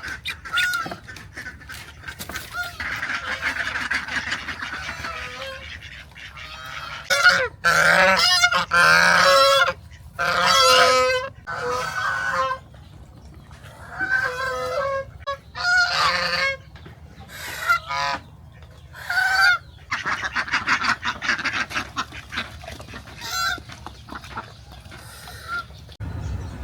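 Geese honking: loud, repeated calls in runs with short pauses between.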